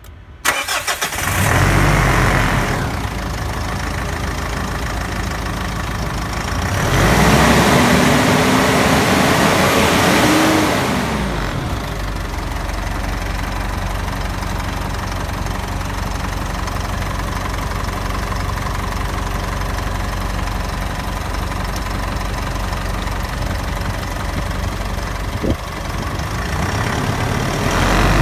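2010 Mitsubishi Triton's 2.5-litre four-cylinder turbo diesel cranking briefly, catching and idling. About seven seconds in it is revved once, the pitch climbing and then falling back over about four seconds before it settles to a steady idle.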